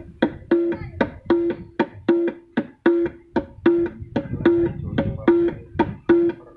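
Dangdut gendang played in a steady groove through a stage sound system at a sound check: an even run of sharp slaps alternating with short, ringing pitched tones, about two to three strokes a second, over low thumps.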